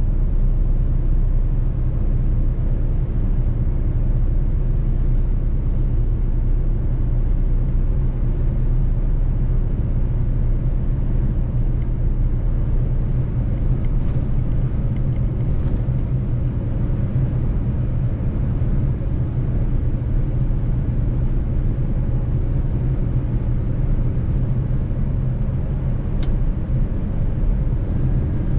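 Mercedes-Benz truck's diesel engine running steadily under way, a low even drone with road rumble. A brief click about 26 seconds in.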